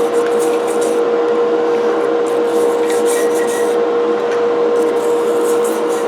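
A brush scrubbing grease off cast-iron coffee grinder parts in irregular strokes, over a steady hum.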